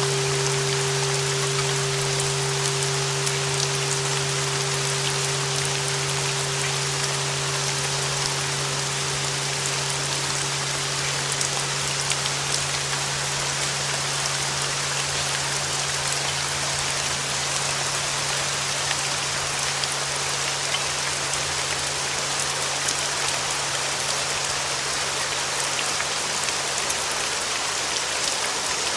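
Steady rain noise. Under it, the lingering ring of flat bells tuned to 396 Hz dies away: the 396 Hz tone fades out about halfway through, and the deeper bell tones fade near the end.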